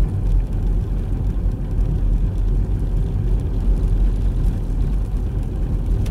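Steady low rumble of a car driving, heard from inside the cabin: tyre and road noise with the engine underneath.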